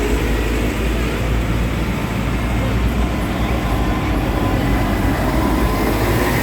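Tractor engine running steadily, its level even throughout with no revving or sudden sounds.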